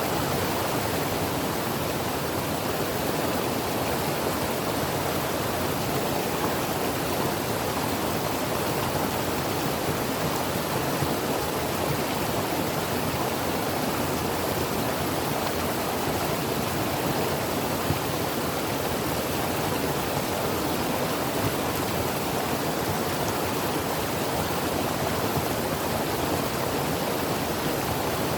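Creek water running steadily over rocks, a constant rushing noise that does not change.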